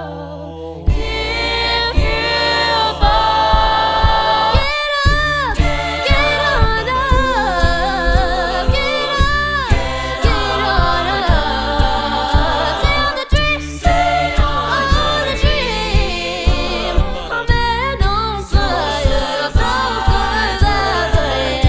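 Contemporary a cappella group singing in several voice parts over a deep sung bass line. A steady vocal-percussion beat comes in about a second in.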